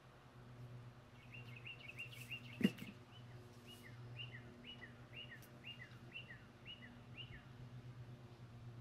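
A songbird singing a run of short descending chirps, quick at first and then about two a second, over a low steady hum. One sharp knock about two and a half seconds in is the loudest sound.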